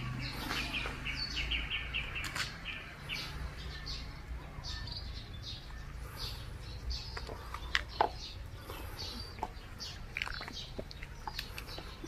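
Small birds chirping, with a quick run of short high notes in the first couple of seconds and scattered calls after. A few light clicks and a low steady hum sit underneath.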